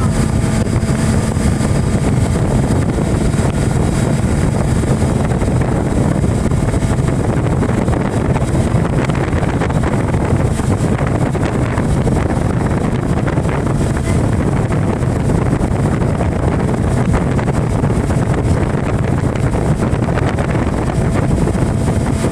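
Motorboat running steadily under way, with heavy wind noise on the microphone.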